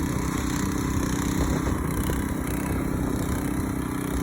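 Garden tiller's engine running steadily.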